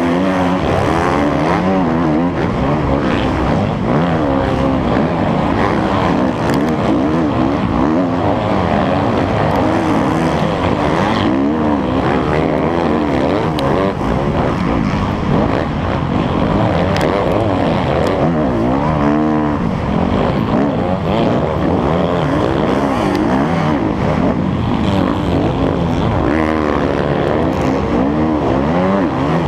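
Motocross bike engine running hard, its pitch rising and dropping again and again as the throttle opens and closes.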